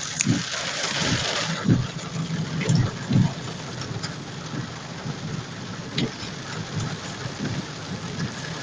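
Heavy rain pouring steadily, with a vehicle running through it and irregular low thumps. The rain is heaviest in the first second and a half.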